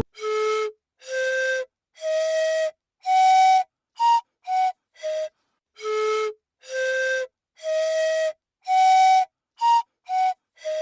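A breathy flute-like wind instrument playing a simple tune of separate held notes with short gaps between them: four notes climbing, a higher note, then stepping back down, and the same phrase played a second time.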